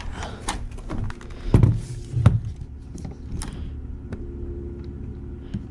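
Knocks and clicks of a model train piece being handled and pushed into place on the layout's track, the two loudest being dull thumps about one and a half and two and a quarter seconds in, over a steady low electrical hum.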